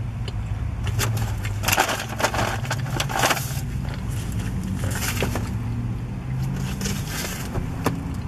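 Close-up chewing of a mouthful of burrito, with bursts of crunching and crinkling about a second in, near the middle and towards the end. A steady low hum inside the car runs underneath.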